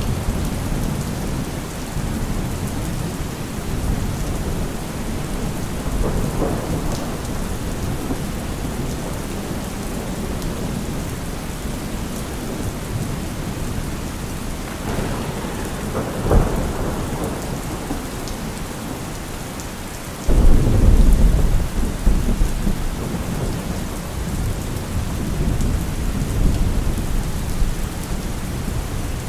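Heavy rain falling steadily in a thunderstorm, with rolls of thunder rumbling low beneath it; a louder thunderclap breaks in suddenly about two-thirds of the way through and rumbles on for several seconds.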